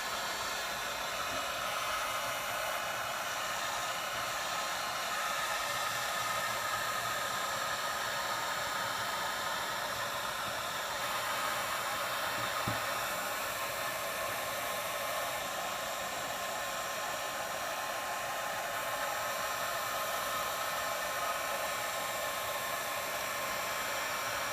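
Hot-air blower running steadily on the phone's front glass, heating it to soften the adhesive so the cracked glass can be lifted off.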